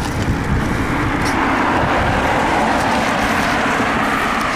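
Steady rushing noise of a bicycle ride at speed along a road: air rushing past and road and traffic noise, swelling slightly about a second in.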